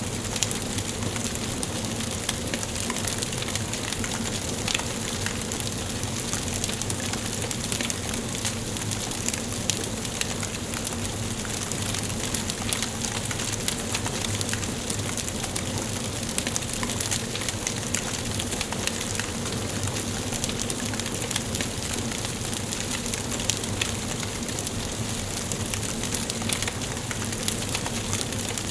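Wood fire burning in a fireplace, crackling steadily: a constant hiss with frequent small, sharp pops from the burning logs.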